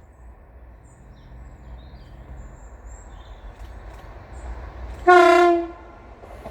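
Low rumble of an approaching train building slowly, then about five seconds in a short single-note train horn blast lasting under a second.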